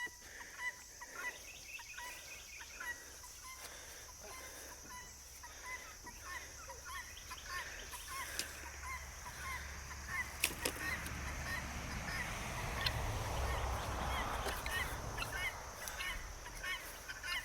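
Farm poultry calling: a flock keeps up many short, quick calls, one after another, throughout.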